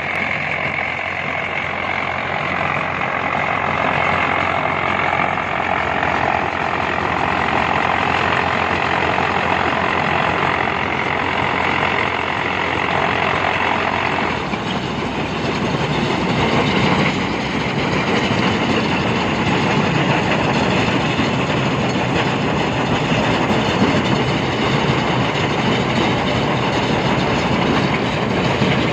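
Heavy machinery running steadily: engine noise with mechanical clatter, changing character about halfway through.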